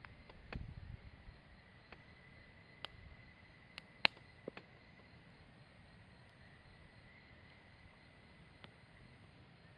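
Wood campfire crackling quietly, with a few sharp pops scattered through it, the loudest about four seconds in. A faint, steady high-pitched tone sounds throughout.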